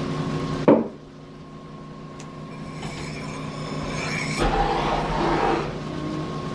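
Motor-driven sharpening wheel running with a steady hum while a knife blade is sharpened. There is a sharp knock just under a second in, and a rougher, noisier stretch of about a second starting about four and a half seconds in.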